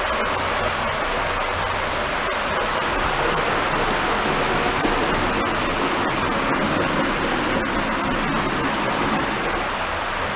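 Creek water rushing steadily, an even hiss that swells a little in the middle.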